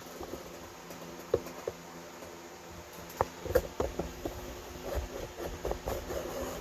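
VEVOR 12-inch shutter exhaust fan running with a steady hum. Over it come scattered light knocks and taps, more of them in the second half.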